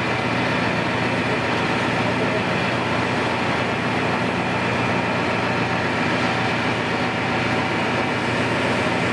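Heavy diesel machinery running steadily at a demolition site, a constant engine drone with no breaks.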